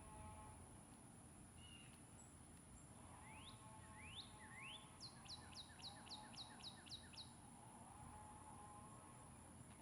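A songbird singing faintly: three rising whistles, then a quick run of about nine falling notes, about four a second, over a steady high-pitched hum.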